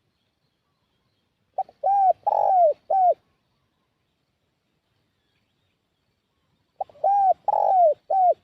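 Spotted dove (tekukur) cooing, the call used as a lure to draw other tekukur in. Two phrases: each a short clipped note followed by three arching coos, the second phrase starting about five seconds after the first.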